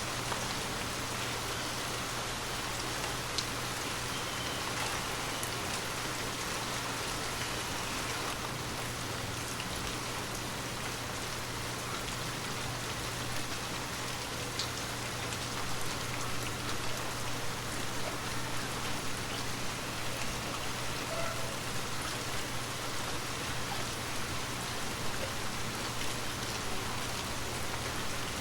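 Gentle rain falling steadily: an even hiss with scattered ticks of single drops, over a low steady hum.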